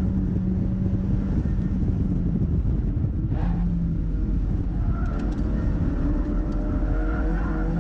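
Mazda MX-5's four-cylinder engine running steadily on track over constant road noise. Its note changes briefly a little over three seconds in, then shifts slowly near the end.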